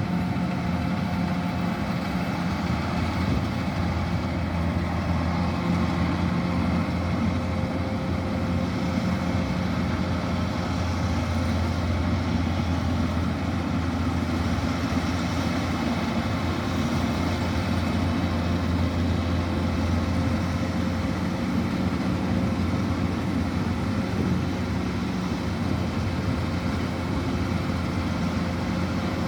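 Kubota DC-105X combine harvester's diesel engine running steadily: a low, unchanging drone with a steady whine above it.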